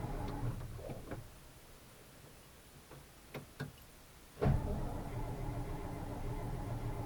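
1956 Oldsmobile Rocket 88's V8 being cranked on a cold start. It turns over, stops about a second in, and after a few clicks it starts turning over again suddenly with a loud kick about four and a half seconds in, not yet running on its own.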